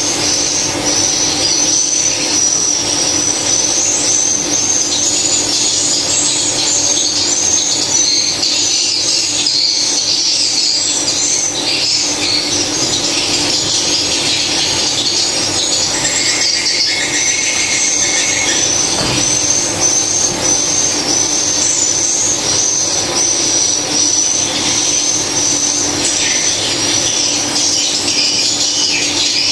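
A dense, continuous chorus of high-pitched swiftlet chirping and twittering, as inside a swiftlet nesting house. A steady low hum runs underneath, and a short steady tone sounds a little past halfway.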